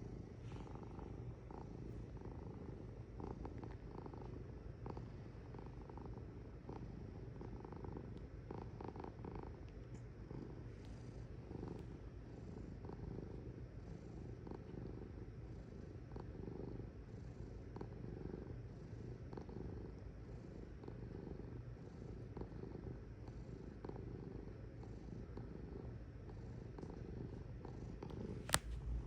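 Domestic cat purring steadily in a continuous low, pulsing rumble, with one sharp click near the end.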